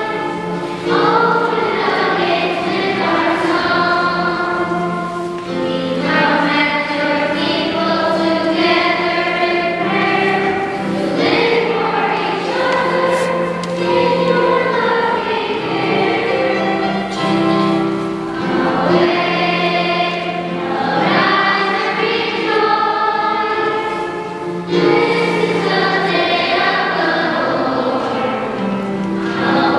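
Choir singing a hymn, the voices moving through the phrases over sustained low held notes.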